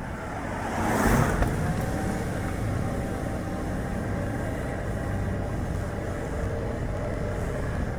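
Light car driving, with steady road and tyre noise and wind rushing past the car. About a second in, a louder rush swells and fades.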